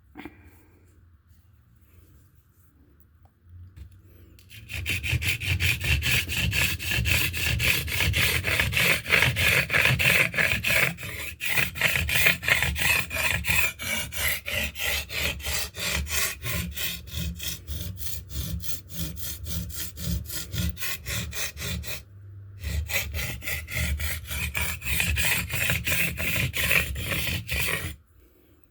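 A steel knife blade stroked rapidly back and forth on a wet limestone sharpening stone, a rasping scrape. The strokes start about five seconds in, break off briefly about three-quarters of the way through, then go on until just before the end.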